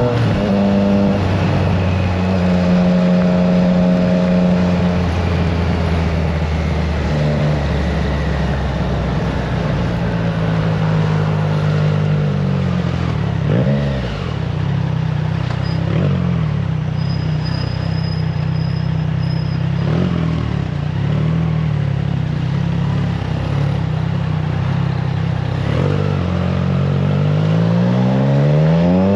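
Triumph Trident 660's inline three-cylinder engine through an aftermarket FireTong exhaust, ridden at fairly steady revs with a few brief throttle changes around the middle. It revs up again near the end as the bike accelerates. Wind noise on the microphone.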